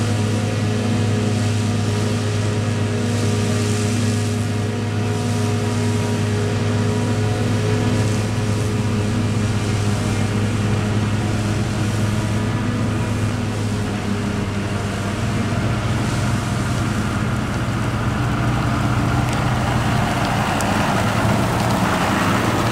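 Large diesel engine of agricultural machinery running steadily at a constant speed, a deep even hum that holds its pitch.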